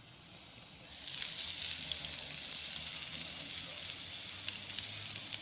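Hamburg steak patty frying in a hot pan: a steady sizzle with small crackles that starts suddenly about a second in.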